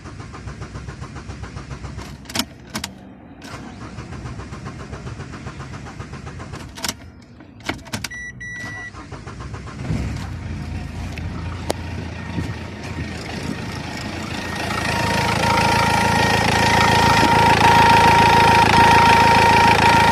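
Dacia Logan's diesel engine turning over on the starter, slow to catch: a hard, delayed start, with a few sharp knocks and a short beep about 8 seconds in. About 15 seconds in it gets much louder and runs with a steady whine.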